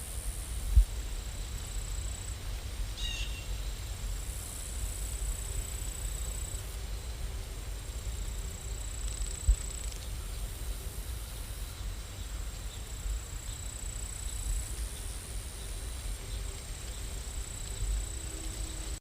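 Steady rain ambience: an even hiss over a low rumble, with a thin high whine that comes and goes. A brief chirp comes about three seconds in, and two soft thumps come near the start and about halfway through.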